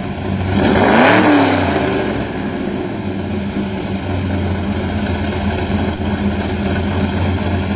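Cummins diesel engine blipped once about a second in, its exhaust note rising and falling through an open electric exhaust cutout, then settling back to a steady idle.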